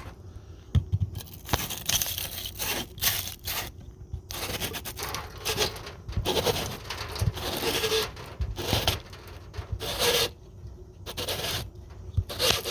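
A cut water-line pipe end being cleaned and reamed: repeated irregular scraping and rubbing strokes with short pauses between them.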